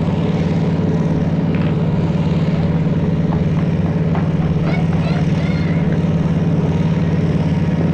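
Threshing machine running with a steady droning hum, a few light clicks and squeaks sounding in the middle.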